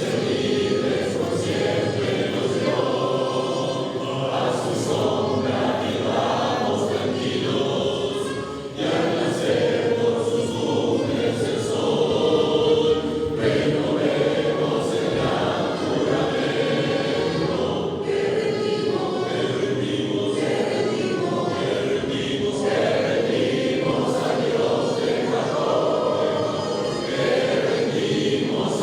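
A choir singing with musical accompaniment, continuous throughout, with a short dip about nine seconds in.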